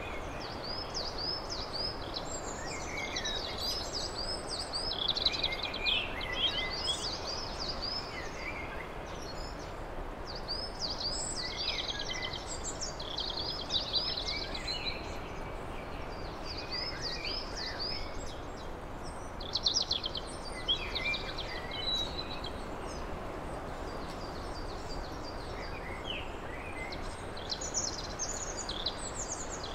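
Songbirds singing, one repeating runs of quick arched notes lasting a few seconds, over a steady background hiss.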